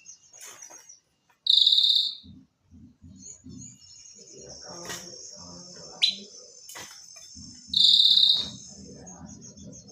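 Female leafbird lure calls: two loud harsh calls, each under a second, about six seconds apart, with a short sharp note between them. A steady high insect trill runs underneath.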